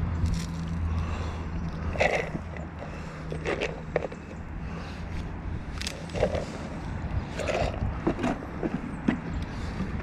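Mobility scooter's electric motor humming, dying away about a second in, followed by irregular scrapes and knocks.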